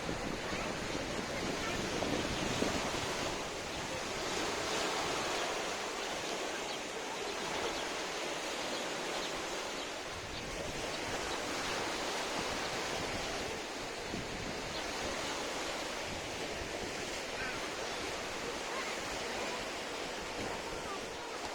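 Black Sea waves washing onto the shore, the surf swelling and easing every few seconds.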